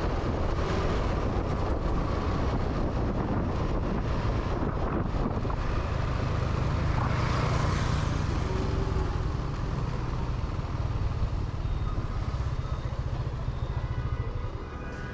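Motorbike engine running steadily on the move, with wind noise on the microphone.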